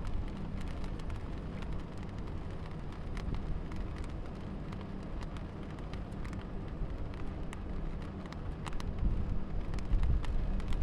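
Rain falling, with scattered drops clicking sharply on nearby surfaces over a steady low rumble.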